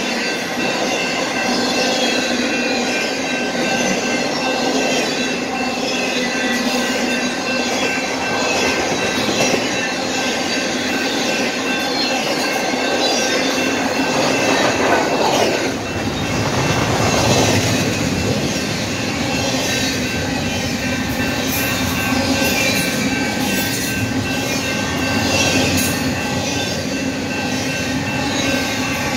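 Union Pacific intermodal freight train's double-stack container cars rolling past close by: steady wheel-on-rail rumble with a high, held squeal of the wheels, swelling briefly about halfway through and with a few sharp clicks near the end.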